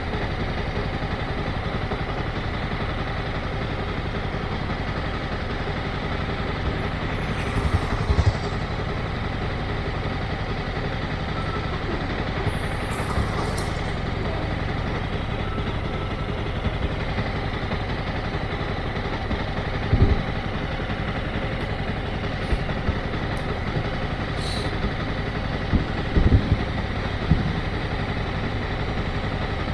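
Motorcycle engine running steadily at low revs, with a few brief low thumps about eight, twenty and twenty-six seconds in.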